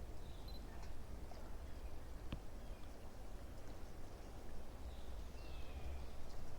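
Faint, scattered bird chirps and a short falling call over a steady low rumble, with one sharp click about two seconds in.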